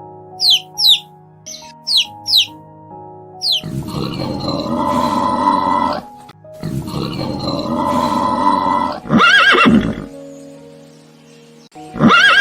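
Horse neighing over light background music: two long rough calls, then louder wavering whinnies about nine seconds in and again near the end. Short falling chirps sound in pairs over the music at the start.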